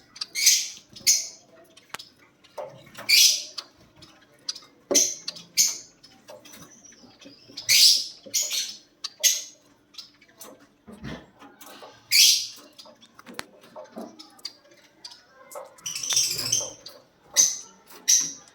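Lovebirds calling: short, shrill chirps every second or two, some in quick pairs.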